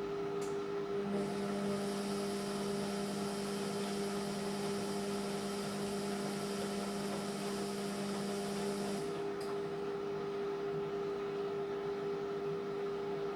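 Indesit MyTime washing machine running with a steady motor hum. A second, lower hum and a hiss come in about a second in and cut off about nine seconds in, each change marked by a short click.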